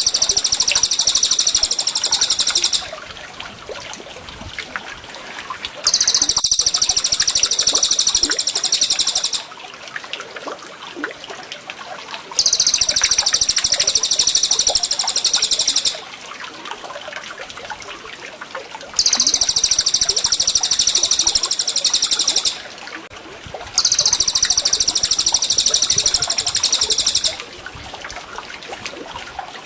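A songbird's high, rapid trilling song, in phrases of about three seconds repeated five times with pauses of about three seconds, over a steady trickle of water. It is a looped masteran (bird-training) recording.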